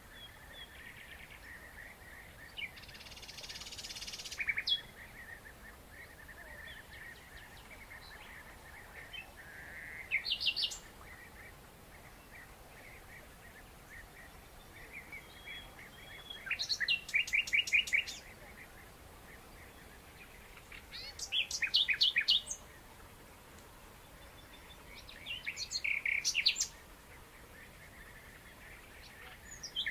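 Small songbirds chirping steadily, with loud bouts of a fast, high trilled song breaking out every five seconds or so.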